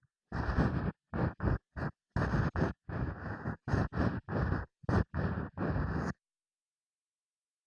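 Ear pick scraping in a microphone's ear: about a dozen short scratchy strokes of varying length with silence between them, stopping about six seconds in.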